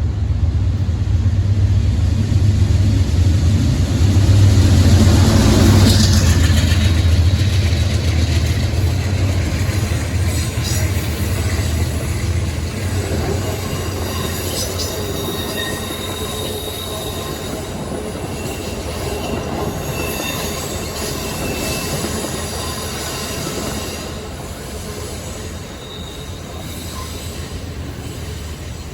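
A train rolling past: a loud low rumble over the first several seconds that slowly fades, then wheels squealing in thin, high tones through the later part, with occasional clicks over the rail joints.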